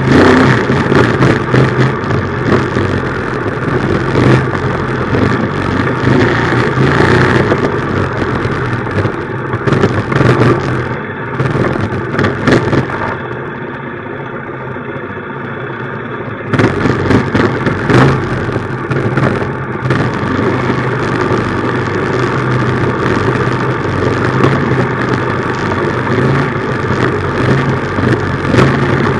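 Minibike's small engine running under throttle during a ride, easing off to a quieter note for about three seconds near the middle, then opening up again.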